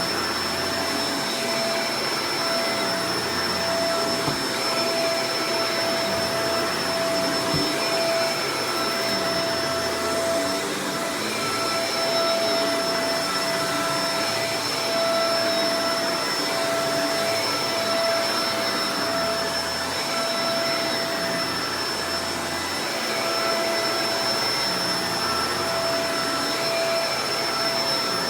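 Shark Professional Powered Lift-Away DLX (NV586) upright vacuum cleaner running steadily, a continuous rush of air with a constant motor whine.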